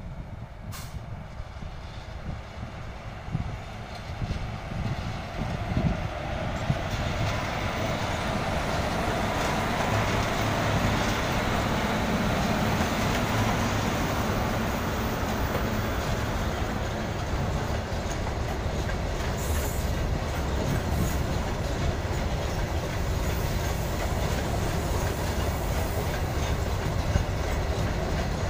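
Freight train of open steel wagons passing close by: the locomotive's approach grows louder over the first several seconds, then the wagons roll past with a steady rumble and wheel clatter over the rail joints.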